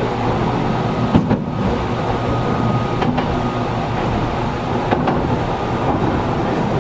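Running sound inside a Gakunan Railway 7000 series electric railcar, with the air conditioning on. Three short sharp clicks come about two seconds apart.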